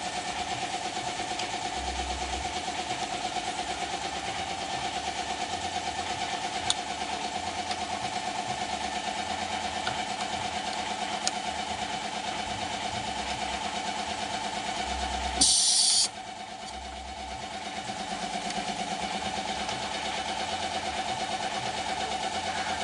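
BMW E36's M52 straight-six idling steadily on a test run after water was cleared from its spark plug wells. About fifteen seconds in, a short loud hiss sounds for about half a second; the engine sound then drops briefly and builds back up.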